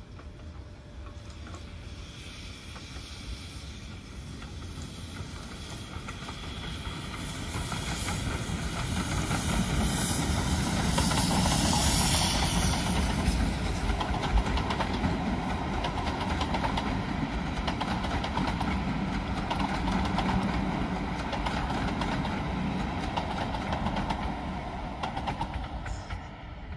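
Steam-hauled passenger train passing. The sound builds as the locomotive approaches and is loudest about twelve seconds in as it goes by. It then carries on as a steady rumble of coach wheels clattering over the track.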